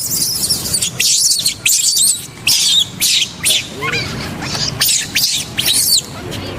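Baby monkey screaming in a run of short, shrill, high-pitched squeals, one after another.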